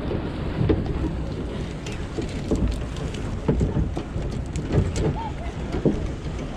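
Water splashing and dripping around a kayak, with many small irregular splashes and ticks over a low rumble of wind on the microphone.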